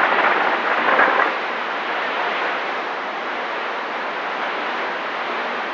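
Steady hiss of static from a CB radio receiver between transmissions, a little louder for the first second before it settles.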